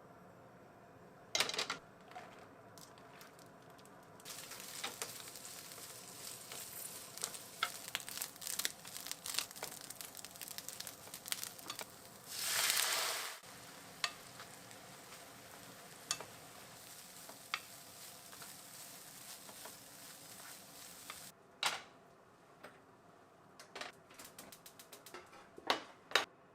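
Food sizzling and crackling in a hot frying pan. The sizzle starts suddenly a few seconds in, swells into a brief louder rush about halfway through, and stops well before the end. A few sharp clinks of utensils against the pan or dishes come near the start and again near the end.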